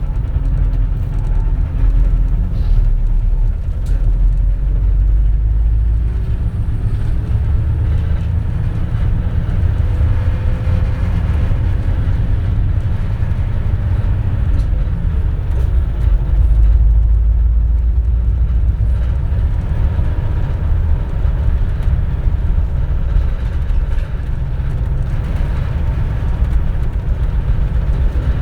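Interior running sound of a 2004 CNG (compressed natural gas) city bus: a steady low engine and drivetrain rumble with faint whines that glide in pitch.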